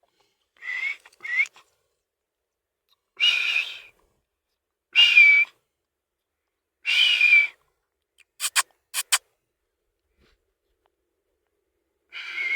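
A parrot giving a series of short, breathy whistled calls, about five of them a second or two apart, each under a second long. Three sharp clicks come in quick succession about two-thirds of the way through.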